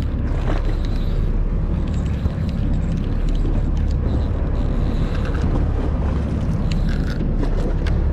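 Steady low drone of a fishing boat's engine, with a few faint clicks over it.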